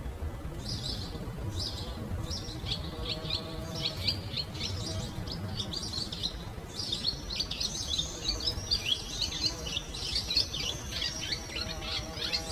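Small birds chirping in quick, short, falling chirps, sparse at first and turning into a dense, continuous twittering chorus about seven seconds in, over a low rumble.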